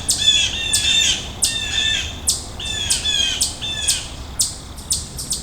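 Birds calling: a rapid series of short, harsh calls, about two or three a second.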